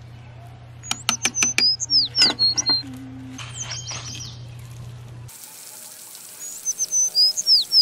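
A songbird singing the same short phrase several times, each a downward-sliding whistle followed by a few short level notes. Sharp clicks come about a second in, over a steady low hum that stops about five seconds in.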